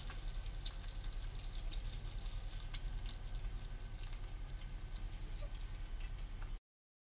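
Chicken frying in hot oil in a small steel pot: a steady sizzle with many small crackles. It cuts off suddenly near the end.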